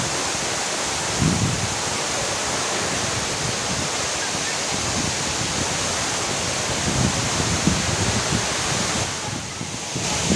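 Waterfall: a steady, loud rush of falling water, which drops briefly in level about nine seconds in.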